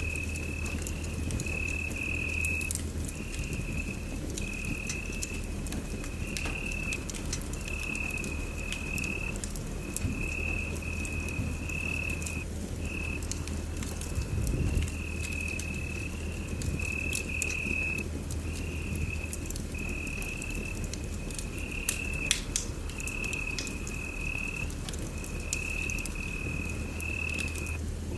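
Wood fire burning in a fireplace, crackling with scattered sharp pops over a steady low rumble. Over it, a high, even trill repeats about once a second, each burst shorter than a second.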